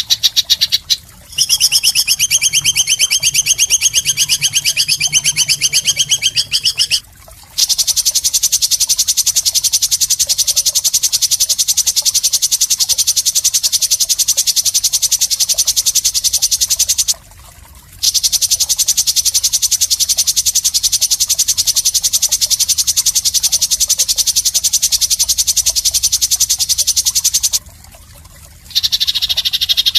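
Bird call from a songbird-training (masteran) recording: a high, very rapid buzzing trill. It runs on in long unbroken stretches of several seconds, with three brief pauses.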